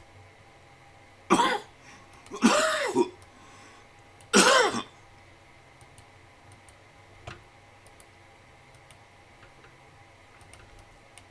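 A man clearing his throat three times in quick succession, followed several seconds later by a faint single click.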